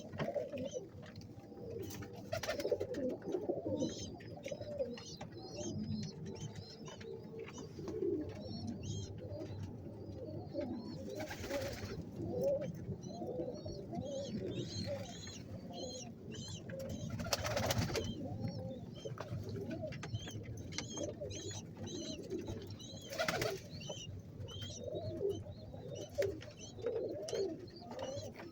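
Many domestic pigeons cooing continuously, with scattered higher chirps. There are three brief noisy rustling bursts, about 11, 17 and 23 seconds in.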